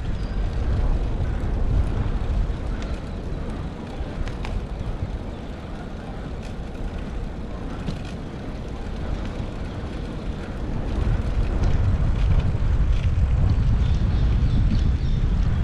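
Wind and road noise on a bicycle-mounted GoPro while riding through city traffic: a steady low rumble that eases off for a while and grows louder again about eleven seconds in.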